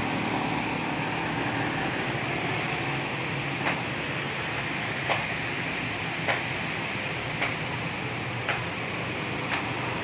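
Heavy rain pouring down steadily. From just under four seconds in, single sharp taps of drops land close by, about one a second.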